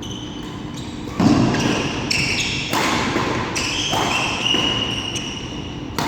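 Badminton rally: sharp racket strikes on the shuttlecock four times, roughly a second or so apart, the first the loudest, with short high squeaks of shoes on the court floor between them.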